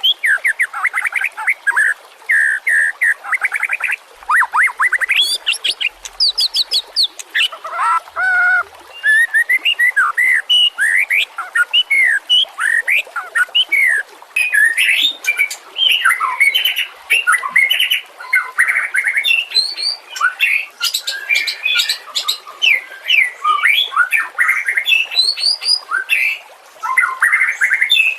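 White-rumped shama (murai batu) singing: a long, varied song of rapid trills and whistled notes that rise and fall, delivered in quick phrases with short pauses between them.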